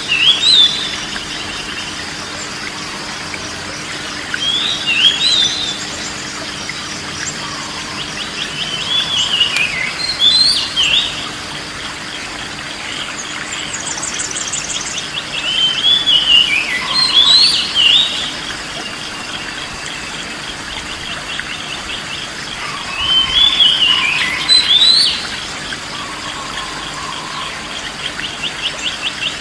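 A songbird singing short, bright whistled phrases of quick up-and-down glides, in bursts every few seconds, over a steady hiss and a faint, fast, insect-like trill.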